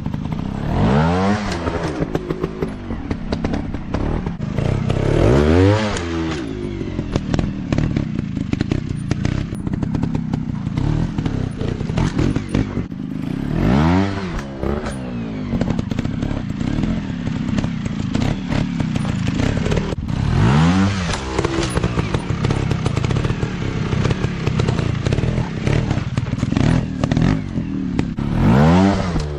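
Dirt bike engines revving hard in bursts about five times, each rev rising and then falling in pitch, over a steady engine drone and constant clatter.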